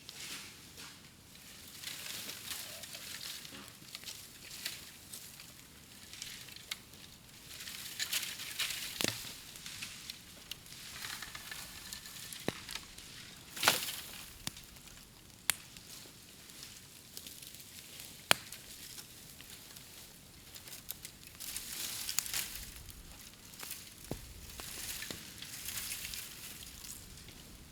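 Bamboo burning in an open bonfire, crackling and hissing steadily, with sharp pops every few seconds, the loudest two about halfway through and a little after.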